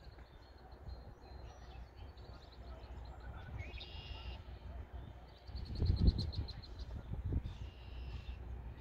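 Small birds chirping, one giving a quick trill about six seconds in, over wind buffeting the microphone, with the strongest gust around the same moment.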